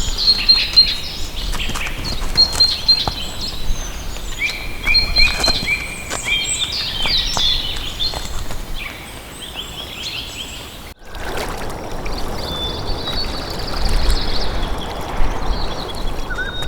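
Wild birds singing, with quick runs of repeated high notes and lower chirps. About eleven seconds in the sound cuts abruptly to a different outdoor ambience: a steady hiss with fainter bird calls.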